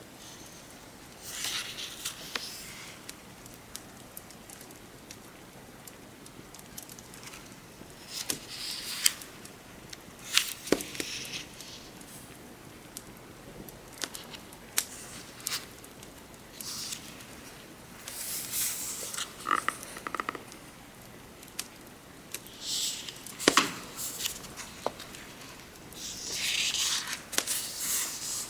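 Book pages being turned by hand: about seven separate papery rustles, each up to a couple of seconds long, over a steady hiss of rain and the scattered pops and crackles of a wood fire.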